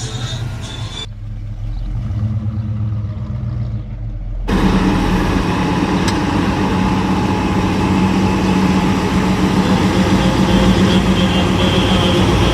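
A car engine running close by, stepping up to a louder, fuller, steady sound about four and a half seconds in.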